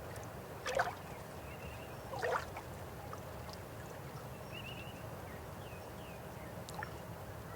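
River water flowing steadily, with two louder splashes about a second and a half apart in the first few seconds. Faint high chirps come in now and then over the flow.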